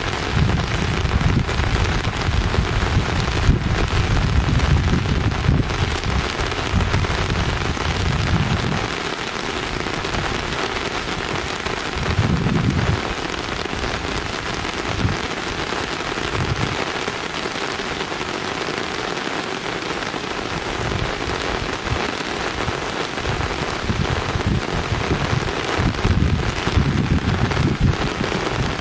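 A steady, even hiss of rain-like noise, with low rumbling through the first nine seconds or so, once more briefly, and again near the end.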